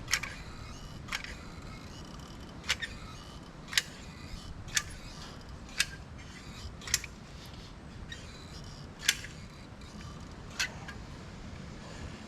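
A series of sharp knocks or taps, about one a second at uneven spacing, over a steady low background noise.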